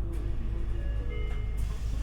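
Interior of an Isuzu Erga diesel city bus under way: a steady low engine and road drone, with a short electronic chime melody of held notes at several pitches playing over it.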